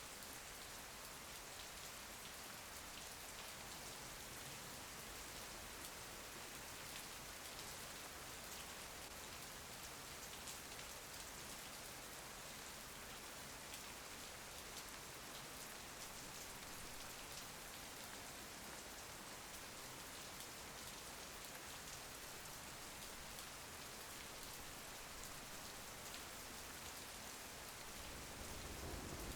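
Steady rain pattering on a window, a soft even hiss with fine drop ticks. A low rumble comes up near the end.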